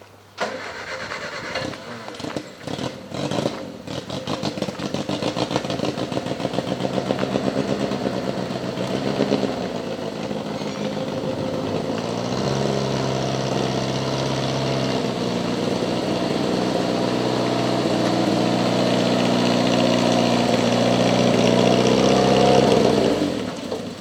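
Car engine cranking and catching, then running with a steady hum that grows louder before it is shut off shortly before the end.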